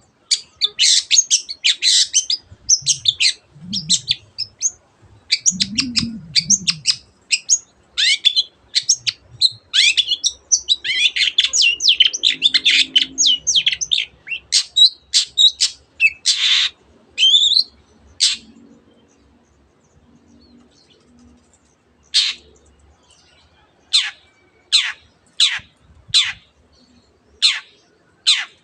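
Long-tailed shrike (cendet) singing a fast, dense run of varied high notes, its song filled with mimicked canary and other birds' phrases. After a short pause near the middle it switches to sharp calls that sweep downward, repeated about once a second.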